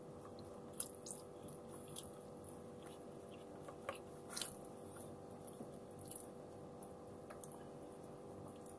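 A person chewing a mouthful of rice and fried milkfish eaten by hand, quietly, with scattered small mouth clicks and smacks, a few a second at most and slightly louder about four and a half seconds in.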